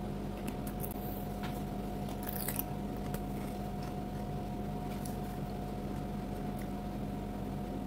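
A person biting and chewing raw cucumber and other crisp raw vegetables, with a few faint crunches scattered through, over a steady background hum.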